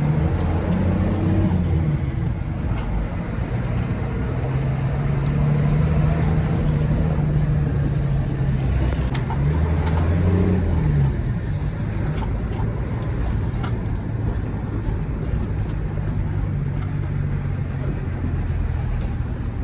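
Truck engine running while driving, with road noise. Its pitch climbs and drops briefly near the start and again about ten seconds in, then holds lower and steady.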